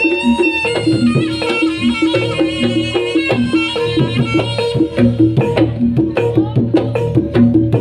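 Live Javanese jaranan (horse-dance) music: a reedy wind-instrument melody over hand drums and a repeating pitched gong-chime figure. From about five seconds in the drumming turns dense, with many sharp strokes.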